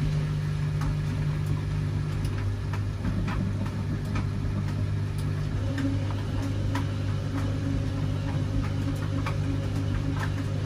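Washing machine running mid-cycle: a steady motor hum that drops to a lower pitch about two seconds in, with scattered light clicks and knocks from the turning drum.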